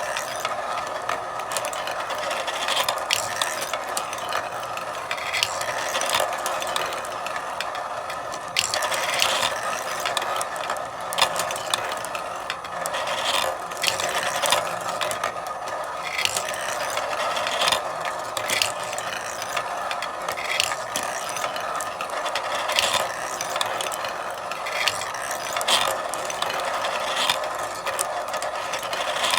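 Marbles rolling continuously along a marble run's track, with many sharp, irregular clicks as they knock against the track pieces and each other.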